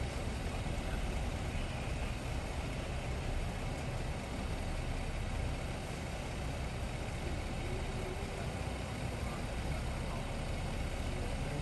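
A police SUV's engine idling close by, a steady low rumble, with faint voices in the background.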